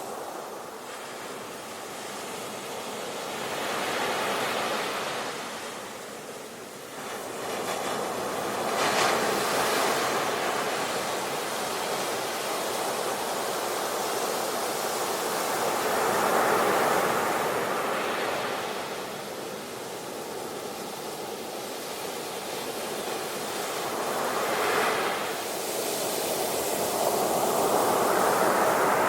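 Sea waves breaking and washing onto the shore, a continuous rushing hiss that swells and ebbs every several seconds as each wave comes in.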